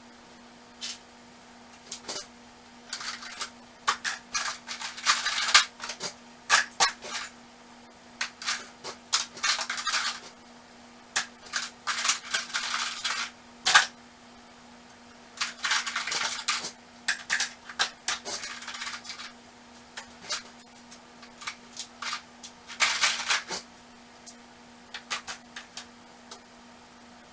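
Metal hand tools clinking and clattering as they are rummaged through and sorted in a toolbox, in irregular runs of sharp knocks and rattles.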